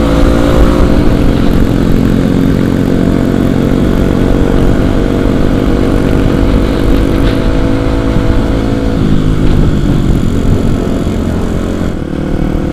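Kawasaki KLX250's single-cylinder four-stroke engine running under way as the motorcycle is ridden, its revs dropping about nine seconds in.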